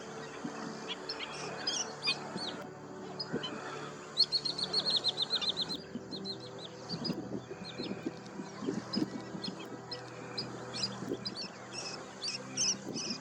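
Wood sandpipers giving sharp, high calls during a territorial fight, with a rapid trill of about a dozen notes a second around four seconds in. Soft background music runs underneath.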